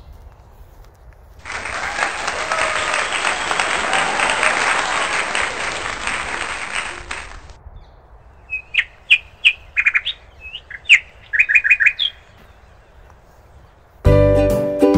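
Birds in bare woodland: first a loud, dense chattering din for about six seconds that starts and stops abruptly, then a quick run of short, sharp bird chirps. Background music comes in near the end.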